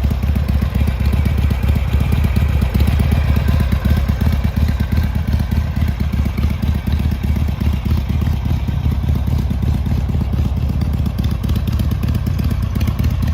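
Harley-Davidson Sportster XLH 883's air-cooled V-twin engine running steadily at idle, with its rapid, even exhaust pulses.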